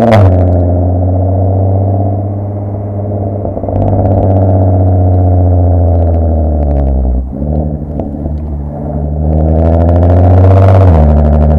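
Mk5 Golf R32's 3.2 VR6 engine heard through a Milltek decat, non-resonated exhaust while driving, loud and raspy, easing off about seven seconds in and then building up again near the end.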